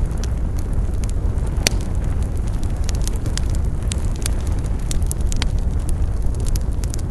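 Wood campfire crackling, with frequent sharp pops and snaps over a steady low rumble; one louder pop comes nearly two seconds in.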